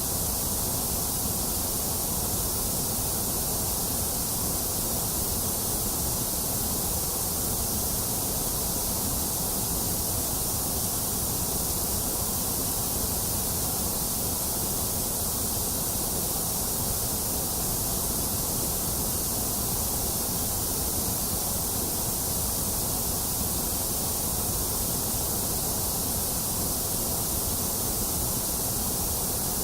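Steady electronically generated white noise for soothing a baby: an even, unbroken hiss with a low rumble under it, level and unchanging throughout.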